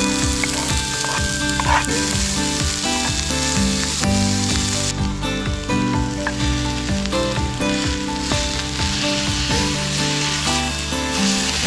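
Food frying and sizzling in a hot pan, with a steady hiss, over background music.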